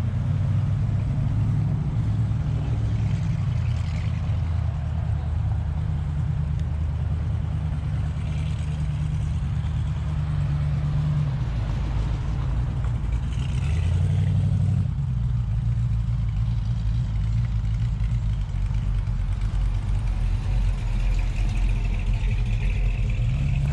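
Classic Mopar car engine running at low speed and idling: a steady low rumble that changes note about two-thirds of the way through.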